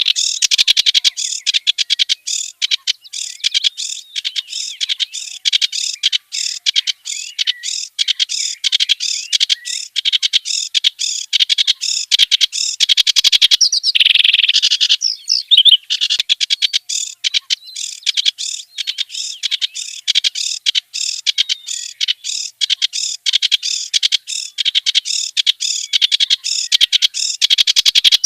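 Kerak basi (reed warbler) singing a long, rapid, harsh chattering song of quick repeated notes, with a brief lull about halfway through.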